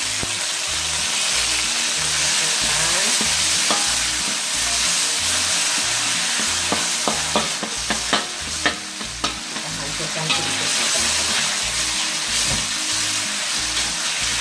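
Tofu pieces sizzling in hot oil in a metal wok, with a stainless steel spatula stirring and scraping against the pan. Several sharp clicks of the spatula on the wok come around the middle.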